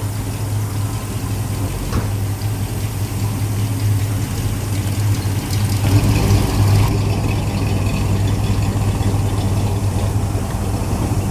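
A car engine idling steadily with a low, even hum, with a single sharp click about two seconds in.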